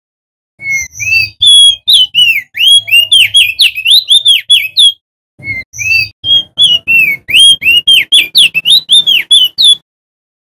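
Male opior jambul singing loudly: two fast runs of sweeping, whistled chirps, the second starting after a short break about halfway through.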